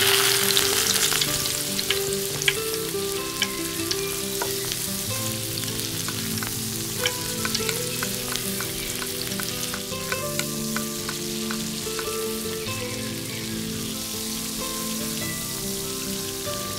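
Food frying in hot oil in a miniature pan: a dense sizzle that starts suddenly and eases off slowly, with scattered sharp crackles and pops. Soft background music with held notes plays underneath.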